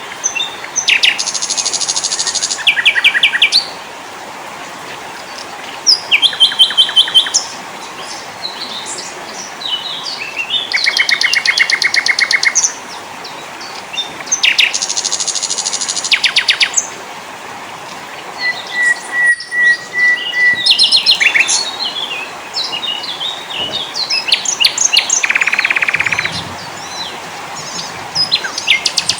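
Several small songbirds singing together: short high chirps mixed with rapid dry trills that each last a second or two, over a steady hiss.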